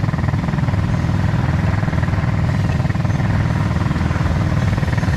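Small engine of an automatic ATV running steadily at a low, even speed, with no revving.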